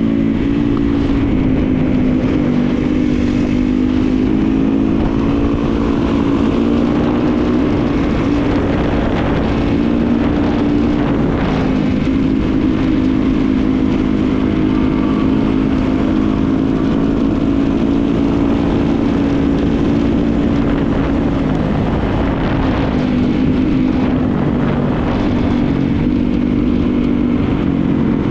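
Dirt bike engine running at a steady, nearly unchanging pitch, with a thick noisy low end beneath it.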